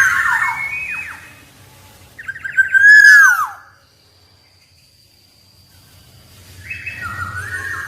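Black-naped oriole singing: three whistled phrases of notes that slide downward, the loudest about three seconds in, with a pause of a couple of seconds before the last phrase.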